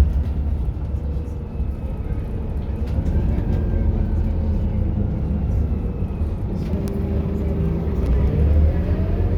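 Scania K230UB single-deck bus's diesel engine running with a steady deep rumble, and a rising whine about eight seconds in as the bus picks up speed.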